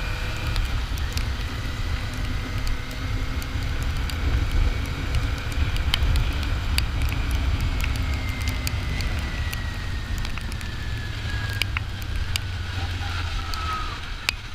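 Kawasaki Ninja 400's parallel-twin engine running under way, buried in heavy low wind rumble on the helmet microphone, with scattered sharp ticks. A high whine falls steadily in pitch through the second half as the bike slows.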